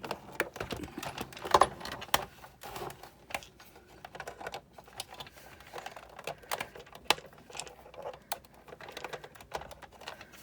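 Irregular light clicks and taps of hard plastic and metal parts as a Big Shot die-cutting machine is worked apart by hand, with a few sharper knocks among them.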